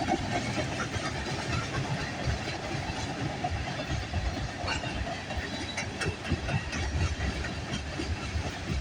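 Freight cars of a slowing CP mixed manifest and autorack train rolling past: a steady rumble and rushing noise from the wheels on the rails, with occasional short clicks.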